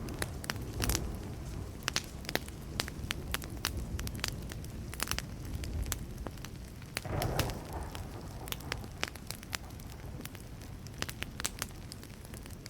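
Wood campfire burning with frequent sharp crackles and pops over a steady low rustle. A short swell of low distant thunder rises about seven seconds in.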